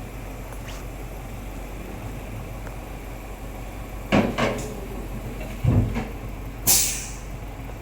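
Toyota Town Ace's 1.5-litre naturally aspirated engine idling steadily through an aftermarket header, metal catalytic converter and loud-version muffler, with a few sharp clunks about four seconds in, a heavy thump a little later and a short hiss near the end.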